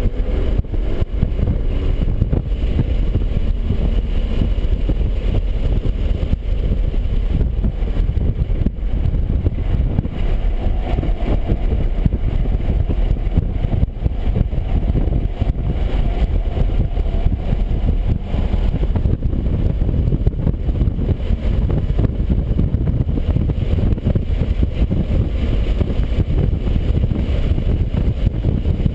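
BMW 135i's turbocharged inline-six running under track driving, blended with loud road and wind noise in a dense, steady drone.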